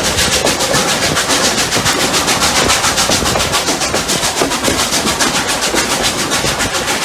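Double-headed steam locomotives Rx207 and 621 working up a grade, their exhaust beats coming in a rapid, even rhythm.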